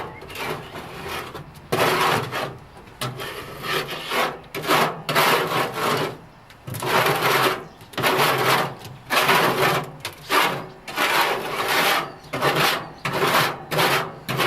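Scraping and scrubbing inside a parts-washer tank as it is cleaned out: a steady run of rough strokes, one or two a second, uneven in length.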